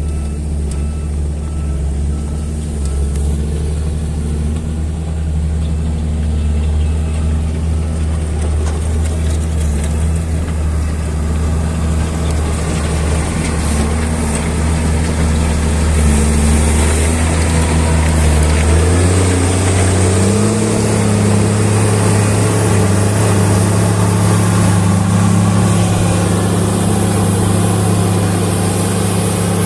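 An engine running steadily at a low speed, then stepping up to a higher steady speed about two-thirds of the way through.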